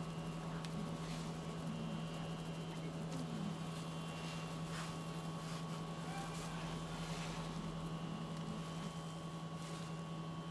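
Steady machine hum with a low tone, as from a running appliance motor, with a few faint clicks over it.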